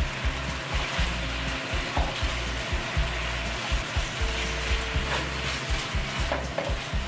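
Sauce, sliced peppers and fried eggs sizzling in a hot wok while being stirred and tossed with a silicone spatula.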